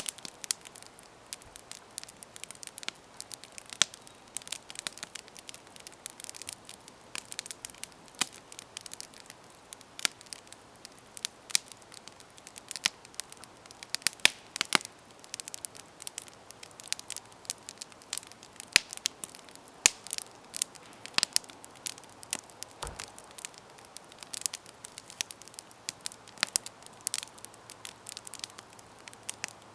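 Campfire burning, with many irregular sharp crackles and pops from the wood over a soft hiss.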